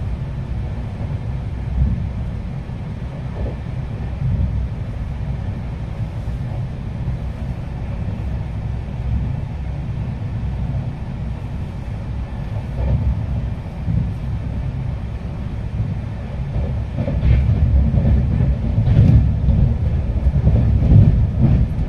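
Passenger train running, heard from inside the coach: a steady low rumble of wheels on the rails that grows louder about three-quarters of the way through.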